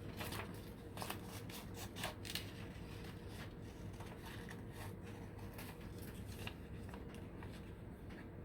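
Scissors cutting paper: a run of short snips, close together in the first couple of seconds, then softer and more spread out.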